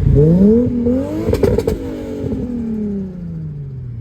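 A loud car engine accelerating, its note climbing for about a second and a half. A few sharp cracks follow, then the note falls steadily away as it fades.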